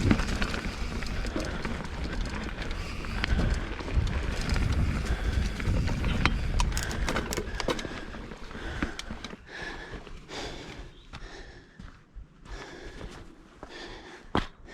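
Mountain bike ridden along a rough trail: wind rumble on the microphone and tyre noise, with frequent short rattles and clicks from the bike over rough ground. The wind rumble eases off about halfway through.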